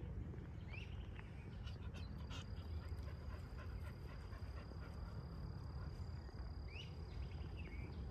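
A dog panting steadily, with a bird calling twice (a quick rising note each time) over a steady high insect-like tone.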